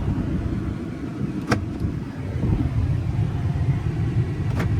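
Power door locks of a Ford F350 pickup clicking as they are operated, two sharp clicks about a second and a half in and near the end, over a steady low rumble in the cab.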